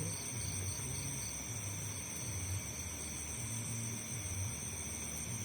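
Night insect chorus of crickets: a steady, high-pitched shrill drone, with a short run of about five quick chirps early on and a patchy low rumble underneath.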